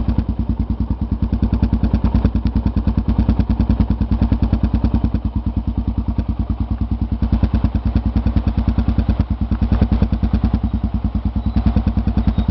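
Motorcycle engine running at low revs with a steady, even beat, and a couple of light knocks from the bike on the dirt road.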